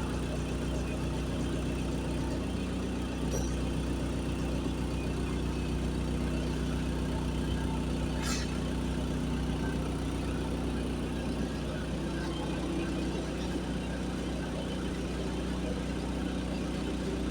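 Diesel generator set running steadily in its silent canopy: a 50 kVA genset with a FAW engine and a Stamford alternator, giving an even low hum. A brief click about eight seconds in.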